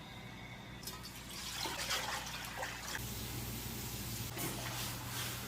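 Wet food sounds: soft, liquid squishes and splashes of food being mixed or eaten, in a run of short strokes over a low steady hum.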